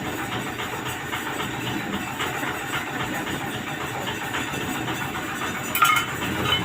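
Engine of a septic siphoning truck running steadily, with a short sharp clank near the end.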